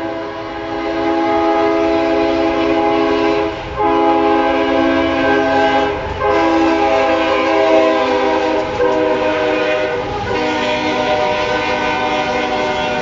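Locomotive's multi-chime air horn sounding four long blasts separated by brief breaks, over the rumble of the train.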